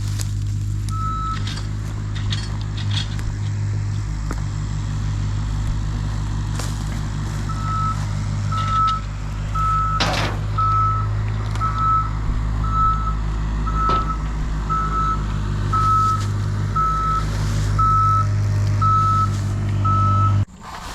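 A machine's engine running steadily while its backup alarm beeps about once a second, as it reverses. The engine drone cuts off suddenly just before the end.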